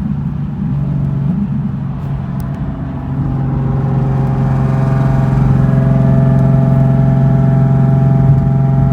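Nissan 350Z's 3.5-litre V6 engine running at a steady, held speed, its drone growing louder over the first few seconds and then holding even.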